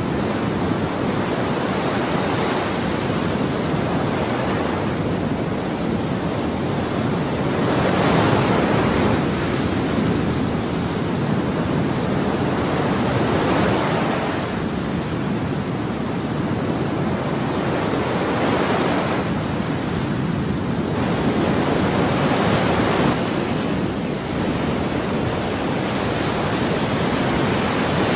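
Ocean waves breaking and washing on a shore, a continuous rushing surf that swells as each wave comes in every four to five seconds.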